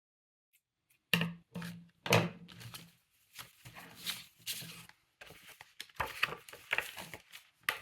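Paper and card being handled: irregular rustling, crinkling and light knocks as a handmade junk journal is worked with, starting about a second in.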